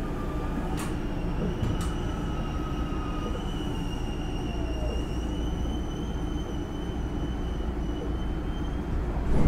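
Running sound inside a Hankyu 9000 series electric train car: wheels rumbling on the rails under a faint, steady whine from its Toshiba IGBT VVVF inverter traction system. Two sharp clicks come about one and two seconds in.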